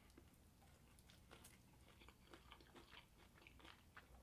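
Faint close-up chewing and biting of a breaded, sticky-sauced honey-garlic chicken wing, heard as many small, irregular clicks and crunches.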